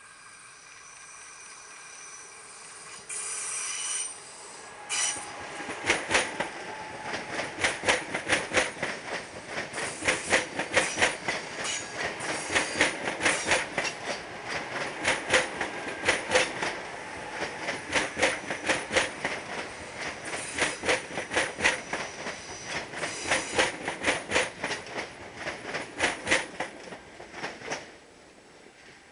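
Train passing close by on electrified track. A steady high whine comes first, then for over twenty seconds a rapid, even clatter of wheels over rail joints, which stops abruptly near the end.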